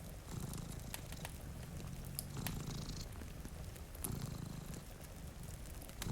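Domestic cat purring, the low rumble swelling and fading with each breath about every two seconds, over scattered sharp crackles of a wood fire.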